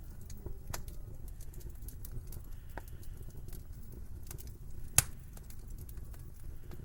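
Wood fire crackling in a fireplace: scattered small snaps over a low steady rumble, with one sharp loud pop about five seconds in.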